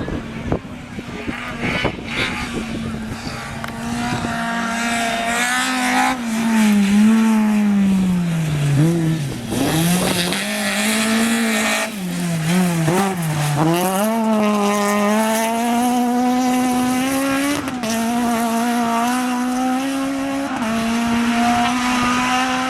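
Rally car engine running hard at high revs, its pitch holding steady, then falling sharply twice as the driver lifts and changes down, and climbing back up each time.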